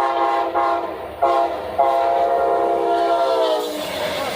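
Locomotive air horn sounding three short blasts and then a long one of nearly two seconds, each blast a chord of several notes, the pitch sagging as the long blast ends.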